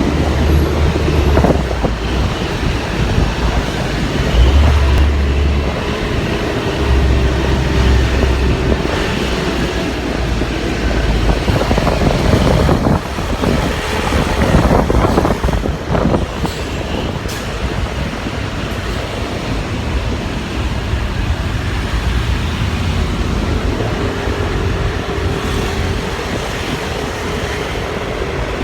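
Motorcycle ride: engine and road noise mixed with traffic, with wind buffeting the microphone in a heavy, uneven low rumble.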